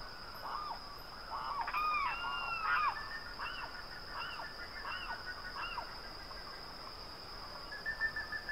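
Several birds calling in quick, short calls that rise and fall, thickest in the first few seconds and thinning out after that, over a faint steady high whine.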